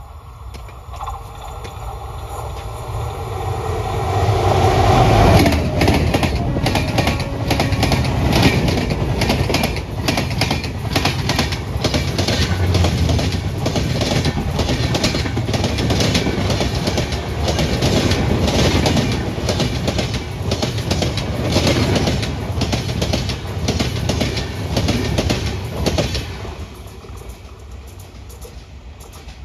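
Indian Railways train passing at high speed: it builds up over about five seconds, then the wheels beat out a rapid, even clickety-clack over the rail joints for about twenty seconds, and the sound falls away near the end.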